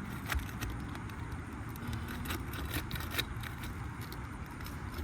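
Scattered short metal clicks and scrapes of a tool working roofing nails out of brittle asphalt shingles, over a steady low rumble.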